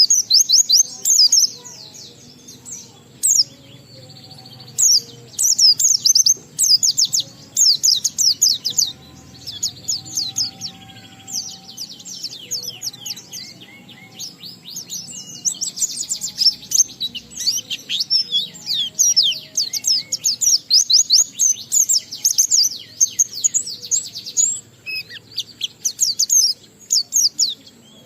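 A white-eye (pleci) singing its long, continuous 'ngalas' song: rapid runs of quick, high, falling twittering notes, broken by a few brief pauses.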